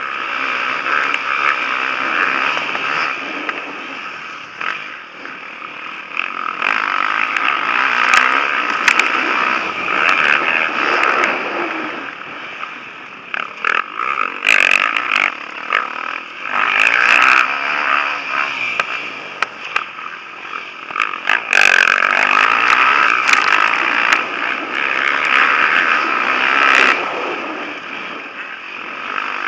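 Motocross bikes racing past on a dirt track, their engines revving hard and dying away in repeated waves as riders come through, with scattered sharp clicks and clatter.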